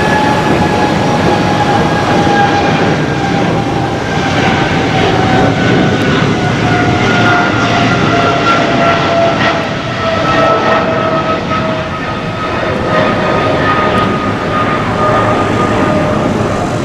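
Boeing 777-300ER's GE90 jet engines, a loud steady rumble with a whine that slowly falls in pitch.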